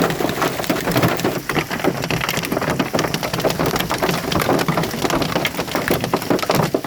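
Hailstones pelting down, a dense, continuous clatter of many small impacts.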